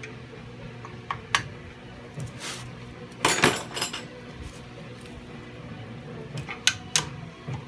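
Metal tools and suspension parts clinking and clanking as they are handled: two sharp clinks about a second in, a louder rattling clatter around the middle, and two more clinks near the end.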